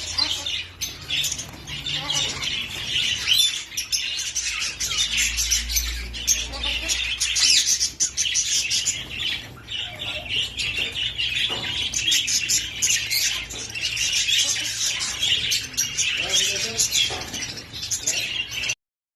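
A large flock of lovebirds and other small parrots chattering: a dense, continuous mass of shrill chirps and squawks. It stops abruptly near the end.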